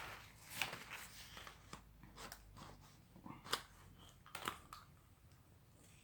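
Faint clicks and rustling from an umbrella's metal frame and spring being handled and worked by hand, with two sharper clicks about a second apart past the middle.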